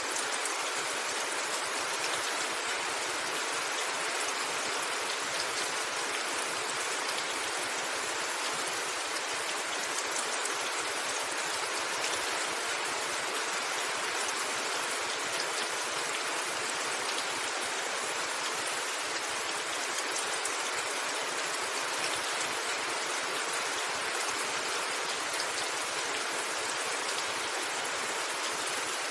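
Steady rain falling on a rooftop: an even, unbroken hiss of many drops with fine individual ticks.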